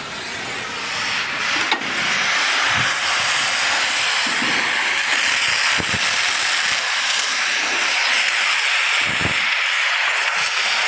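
A steady, loud hiss that swells about a second and a half in and then holds, with a few faint low thuds under it.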